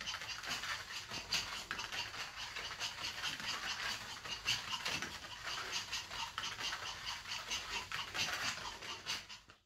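Small dog's feet pattering and scuffing on a play mat as it runs and circles about, a quick, irregular run of light taps.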